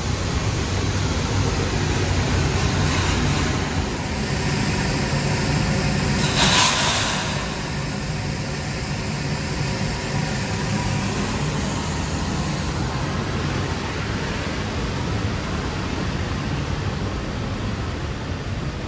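Long Island Rail Road M3 electric train running, a steady rumble with a short loud hiss about six and a half seconds in.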